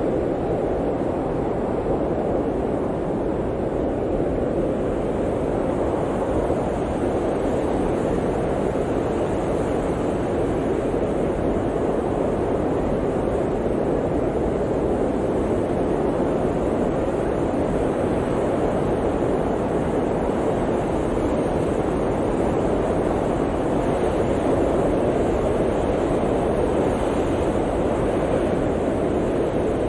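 Blizzard wind blowing steadily as a dense, full rushing noise, swelling slightly a little before the end.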